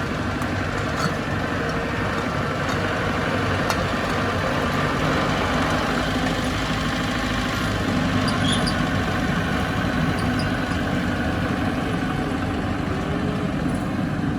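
Bulldozer's diesel engine running steadily, with a few faint clicks.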